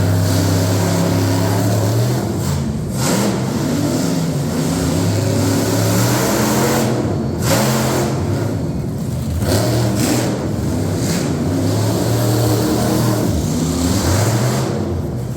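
Monster truck engine running under heavy throttle and revving, its pitch rising and falling.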